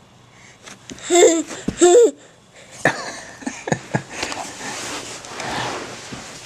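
A toddler's two short, high-pitched squeals about a second in, followed by a few knocks and a rough, rattling noise.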